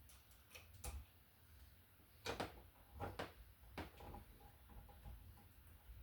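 Faint, scattered sharp clicks and light taps of hand work on a wall receptacle and its wiring, with the loudest pair about two seconds in.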